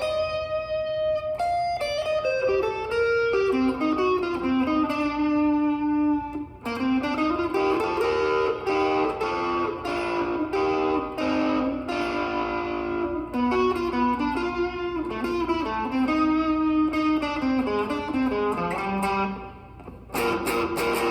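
Guitar playing a fast run of single picked notes in a jazz-style riff, with a brief drop in level near the end.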